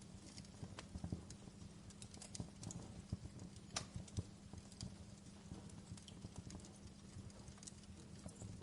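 Wood fire crackling in a fireplace: irregular pops and snaps over a low steady rumble, with a sharper pop a little before the middle.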